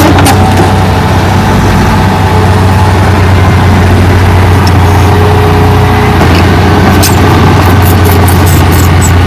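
Heavy diesel earthmoving machine running steadily with a strong low hum, with several short sharp clicks a little after the middle and near the end.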